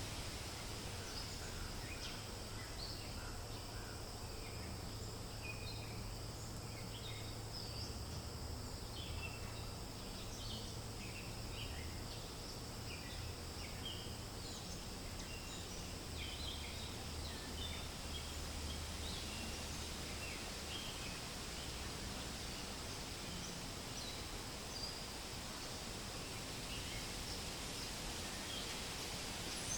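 Forest ambience: a steady hiss of wind in leaves with many short, high bird chirps scattered throughout, busiest in the first half, over a low steady rumble.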